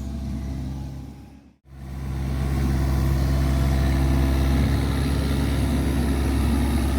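Kubota tractor's engine running steadily while the backhoe digs, a low, even hum. The sound drops out briefly about one and a half seconds in, then comes back at a steady level.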